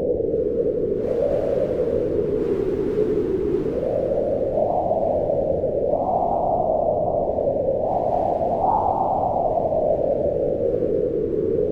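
Wind howling continuously, a low moan whose pitch slowly rises and falls with the gusts.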